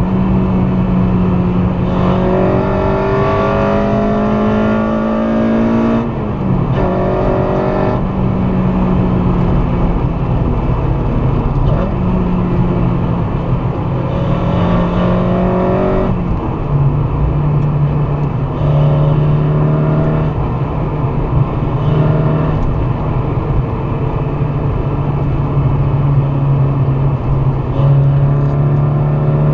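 Honda Civic Si's swapped K24A2 2.4-litre inline-four pulling hard under load, its pitch climbing slowly and then dropping sharply at gear changes several times.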